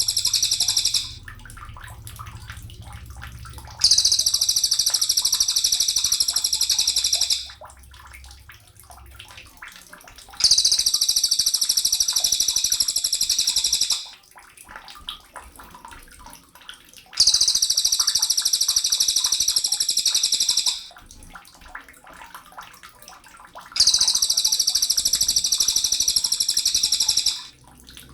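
Sogon songbird singing in a masteran training recording: high, dense, rapid phrases about three and a half seconds long, repeated every seven seconds or so with short pauses between.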